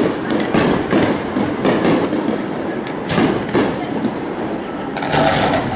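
Aerial fireworks bursting, a string of sharp bangs and pops in irregular succession with a longer crackling run near the end, over the voices of the watching crowd.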